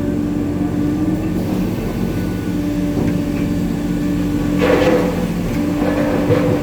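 Hitachi 890 excavator's diesel engine running steadily under load, with a louder noisy burst about two-thirds through and another shortly before the end as shot rock is handled in the bucket.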